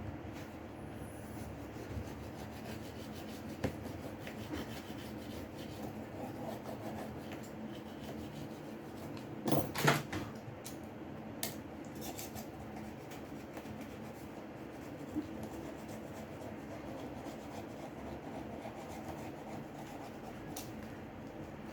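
Light rubbing and scraping of small hand tools against a smartphone's parts, over a steady background noise, with scattered light clicks and a brief louder clatter about ten seconds in.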